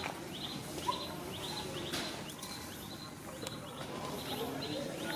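Repeated short, high falling chirps, about two a second, over steady outdoor background noise, with a brief squeak about a second in.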